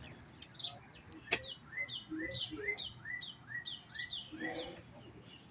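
A songbird singing a run of repeated down-slurred whistled notes, about three a second, for a few seconds. A single sharp click sounds just over a second in.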